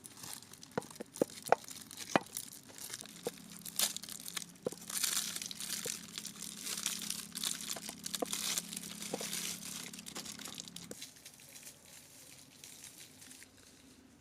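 Chocolate wrappers being torn open and crinkled by hand: scattered sharp crackles, then a longer stretch of crinkling. A steady low hum runs through the middle and stops about 11 seconds in.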